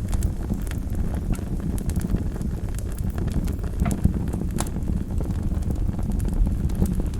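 Wood fire burning in a fireplace: a steady low rumble of flames with irregular crackles and sharp pops from the burning logs, a couple of louder pops around the middle.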